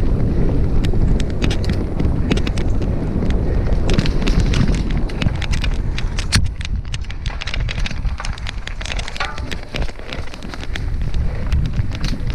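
Mountain bike ridden fast on a dirt singletrack: wind rushing over the microphone and the tyres rumbling, with frequent sharp clicks and rattles from the bike over the rough ground. A brief faint squeal about nine seconds in.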